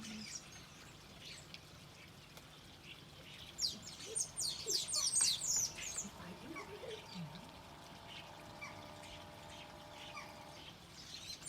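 Garden birds calling and chirping around a bird feeder, with a burst of rapid, high chirps about four to six seconds in.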